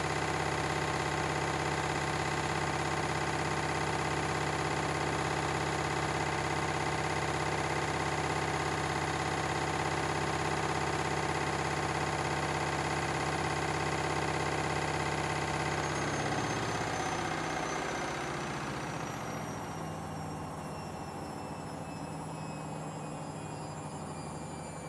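Washing machines running their final spin at high speed, a steady whine with a hum. About two-thirds of the way through the drum speed drops and the pitch falls as the spin winds down.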